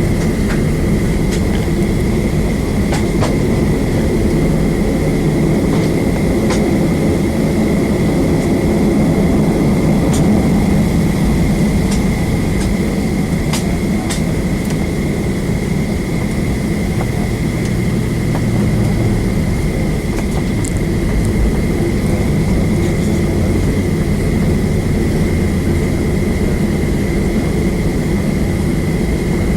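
Cabin noise inside a Southwest Airlines Boeing 737 on the ground with its engines running: a steady low rumble under a thin, constant high whine, with a few faint clicks and rattles.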